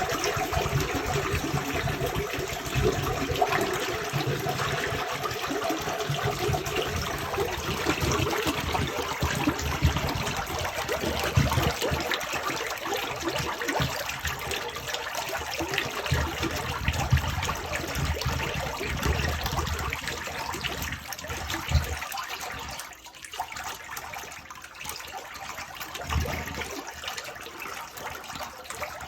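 Sewer water gushing and splashing unevenly through a freshly unclogged sewer line, in irregular surges. It gets quieter about two-thirds of the way through.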